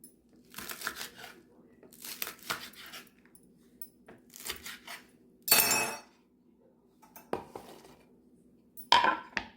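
Kitchen dishes and metal utensils clattering in several separate bursts, the loudest a little past halfway and another near the end, over a faint steady low hum.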